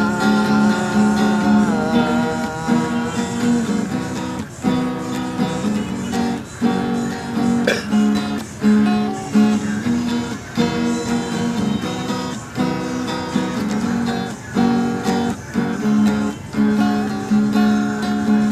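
Acoustic guitar strummed in a steady, even rhythm, an instrumental break with no singing.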